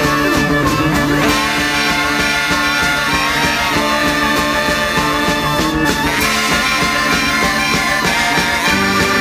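Live band music playing an instrumental piece: held notes stacked over a steady rhythmic pulse, with sliding pitches in the first second.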